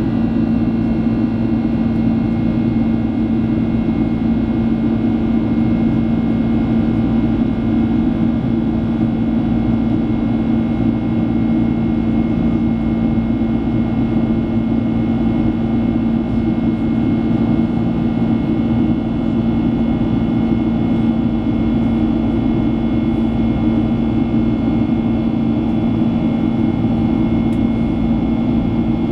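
Boeing 767-300 cabin noise in flight: the jet engines and airflow make a steady drone with a set of constant whining tones above it, unchanging throughout.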